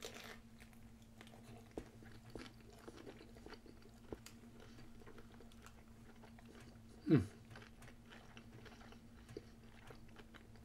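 A person chewing a soft, fruit-filled crepe: faint wet mouth sounds and small clicks over a faint steady hum. About seven seconds in there is one short, louder vocal sound falling in pitch.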